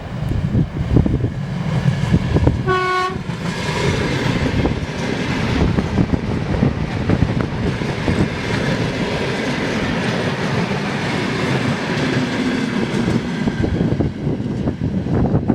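ED9M electric multiple unit giving one short horn blast about three seconds in, then running past with wheels clattering over the rail joints. Blizzard wind is on the microphone.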